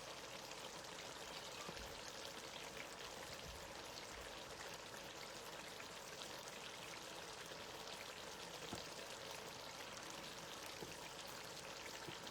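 Faint steady hiss with fine crackling from a pot of spinach stew simmering on the stove, nearly done.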